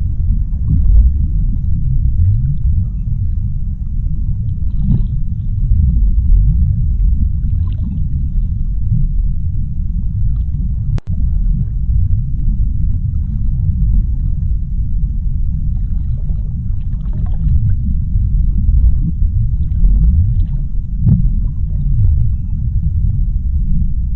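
Underwater ocean ambience: a deep, steady rumble of moving water with faint scattered bubbling swishes. A single sharp click about eleven seconds in.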